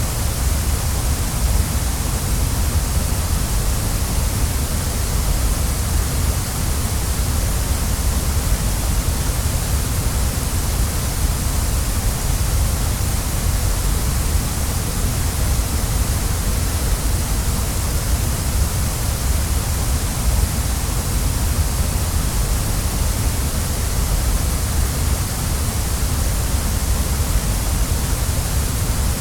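Waterfall: water falling and splashing in a steady, unbroken rush, with a deep low rumble under a bright hiss.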